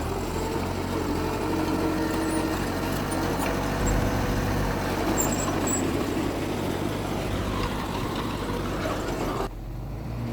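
Diesel engine of heavy earthmoving machinery running steadily under work. It drops sharply in level about nine seconds in.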